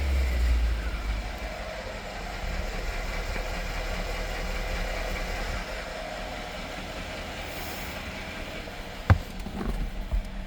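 Mercedes-Benz GL550's twin-turbo V8 settling from a rev into a steady low idle, with one sharp click about nine seconds in.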